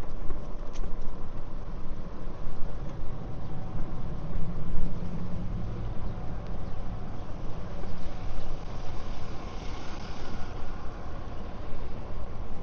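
Street traffic: motor vehicles running and passing, a steady low rumble that swells and fades, with the hiss of a passing vehicle about ten seconds in.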